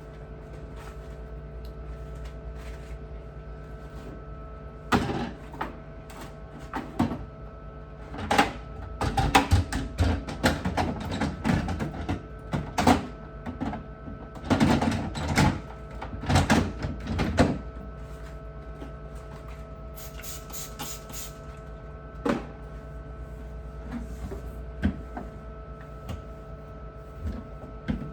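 Irregular knocks and clatter of hard objects being handled and set down, densest between about 5 and 18 seconds, over a steady hum. A few short hisses come around 20 seconds.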